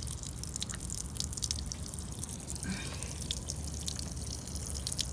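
Trapped rainwater draining out of a 2014 Nissan Sentra's door through its drain hole, uncovered by lifting a rubber flap: many quick, irregular drips over a steady trickle.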